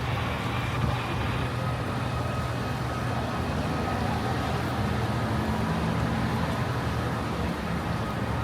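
Steady city street traffic: the even rumble and hum of passing cars and other vehicles.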